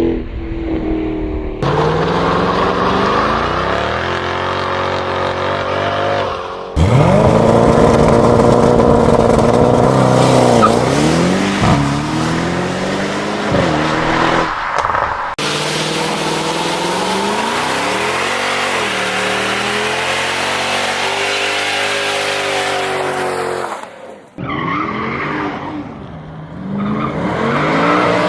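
Mercedes-Benz S63 AMG W221's M156 V8 revving and accelerating hard, its exhaust note climbing and dropping again and again through gear changes, with tyres squealing. Several separate clips, the sound changing abruptly between them.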